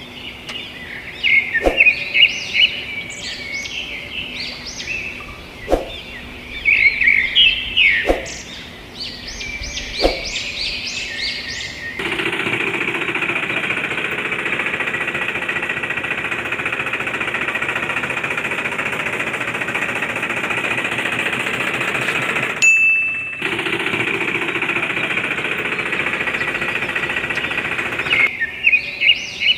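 Birds chirping, with a few sharp knocks. About twelve seconds in, a small motorised tool or machine starts running with a steady, rapid rattle. It stops for about half a second, runs again, then cuts out near the end, leaving the birdsong.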